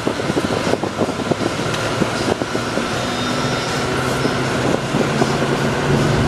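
Chevy Silverado 3500 gas pickup driving, with road and tyre rumble heard from the cab; about halfway through the engine note comes up and rises slightly as it pulls.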